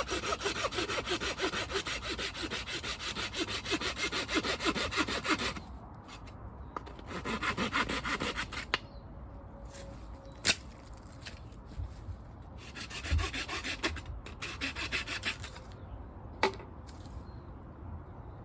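Hand saw cutting through wood, likely firewood for the campfire, in quick back-and-forth strokes. There is a long bout of sawing, then two shorter ones, with two sharp clicks in the pauses.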